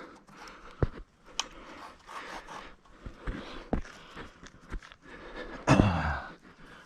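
Footsteps crunching irregularly through dry leaves and brush on a woodland floor, with a few sharp twig snaps or clicks and one louder, longer rustling crunch near the end.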